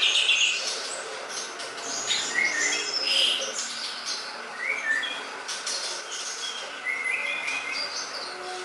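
Cucak ijo (green leafbird) song: a fast, varied run of chirps and short whistled phrases, densest in the first second, then scattered phrases for the rest.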